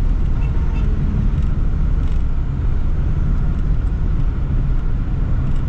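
Toyota Sprinter AE110 on the move: a steady low rumble of engine and road noise.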